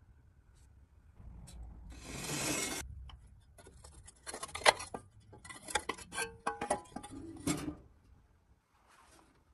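Workshop handling sounds: a short rasping scrape about two seconds in, then a run of clinks and clatters of metal parts, some briefly ringing.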